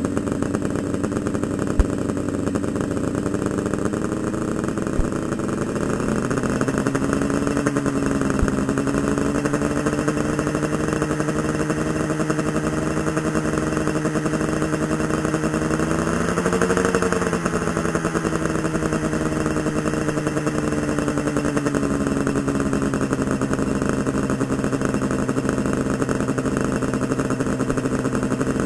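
Yamaha RD350LC's two-stroke parallel-twin engine idling through Micron expansion chambers with freshly repacked silencers, its revs wandering slightly and briefly rising about sixteen seconds in before settling back. A few faint clicks in the first several seconds.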